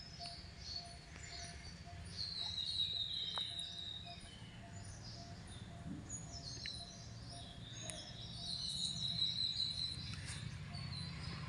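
Small birds chirping and twittering, with many short high calls overlapping and twice a longer drawn-out call.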